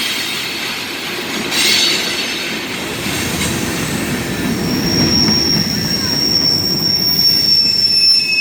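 Freight cars of a long CSX manifest train rolling past, with a steady rumble of steel wheels on rail. From about halfway, a thin, steady, high-pitched wheel squeal sounds over the rumble, with a brief scraping burst about two seconds in.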